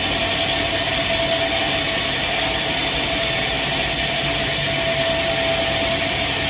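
Sawmill machinery running steadily: an engine-driven saw with a constant hum and a steady high whine that holds one pitch, with no breaks or knocks.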